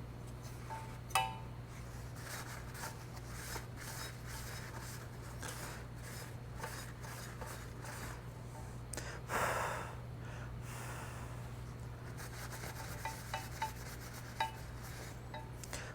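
A cloth rubbing and wiping light-fixture parts clean, with small clicks and taps as the parts are handled and a louder stretch of scrubbing about nine seconds in. A steady low hum runs underneath.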